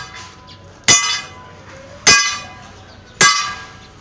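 A hammer striking the steel of a truck leaf spring three times at an even pace, about one blow a second, each blow ringing out metallically and dying away.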